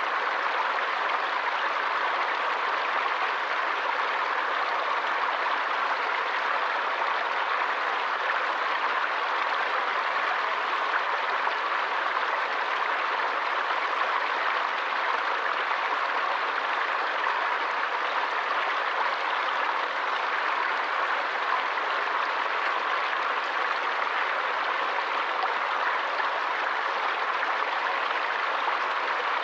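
Forest stream flowing: a steady, even rush of water with no breaks or distinct splashes.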